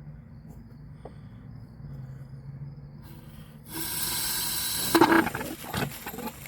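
Outdoor hose spigot opened: water suddenly rushes out with a steady hiss about three and a half seconds in, then comes out in louder, uneven spurts as stale water that sat in the pipe flushes through.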